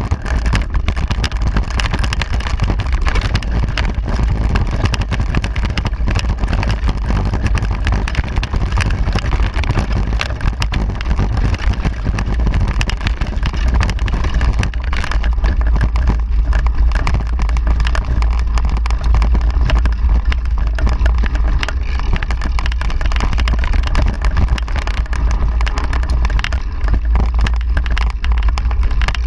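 Loud, steady wind noise buffeting the microphone of a camera carried on a moving mountain bike, with a heavy low rumble and no other distinct sound.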